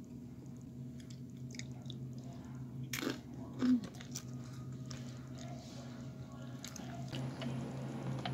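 A person chewing and crunching tortilla-chip nachos, with scattered small clicks of a plastic fork against the chips and the foam takeout box, over a steady low hum. A louder short knock comes about three and a half seconds in.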